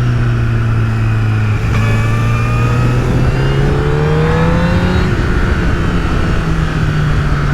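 Honda CBR1000RR Fireblade's 998 cc inline-four engine pulling under throttle. Its note breaks and drops slightly about two seconds in, then climbs steadily for a few seconds and holds level near the end.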